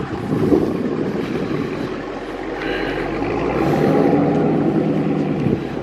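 A motor vehicle engine running, a steady low rumble with a faint hum that grows stronger through the middle.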